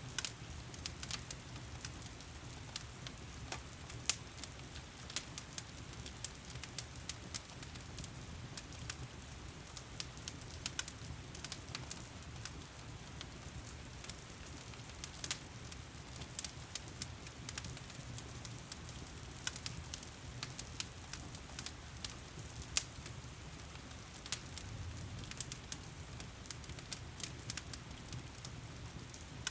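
Wood fire in a stone fireplace crackling, with frequent irregular sharp pops over a low steady rumble. Steady heavy rain runs beneath it.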